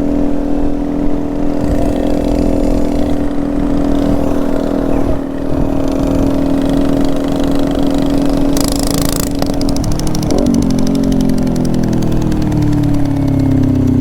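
Small motorbike engine running at a steady speed while being ridden. About ten seconds in, its note drops steadily as the bike slows.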